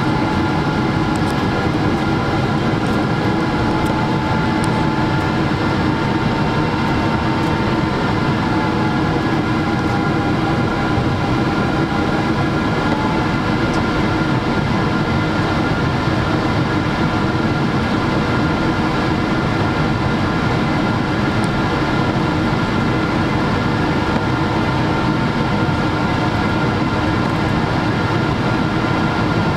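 Steady cabin noise inside a Boeing 777-300 in flight: an even rush of airflow and engine noise with a few constant hums, one of which wavers slightly in pitch during the first dozen seconds.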